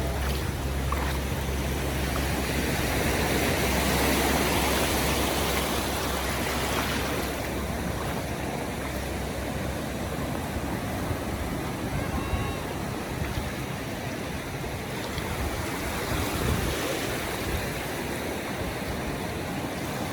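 Ocean surf washing onto a beach, a steady rush of waves that swells about four seconds in and again near the end.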